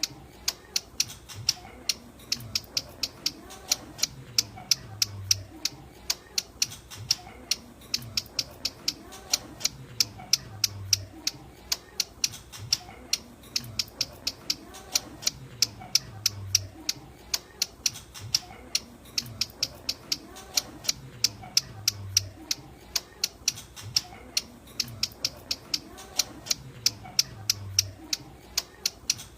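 Ciblek gunung (hill prinia) calling: a fast, unbroken series of sharp, high chips, about three to four a second, the call used to lure the bird. A faint low thump recurs about every five and a half seconds.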